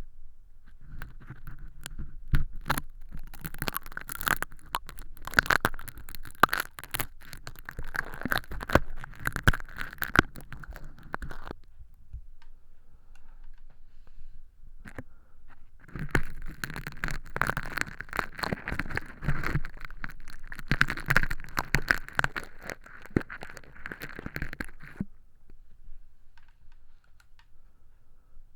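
Crispy fake earwax made of crushed hologram film crackling and rustling as it is scraped and peeled inside a silicone ear model, close to the microphone. Two stretches of dense crackle, each about ten seconds long, with a pause of a few seconds between them.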